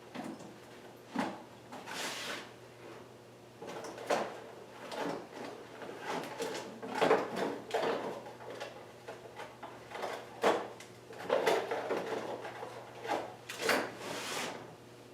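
A drawer sliding and metal tools clattering as someone rummages through a toolbox, with irregular knocks and short sliding noises.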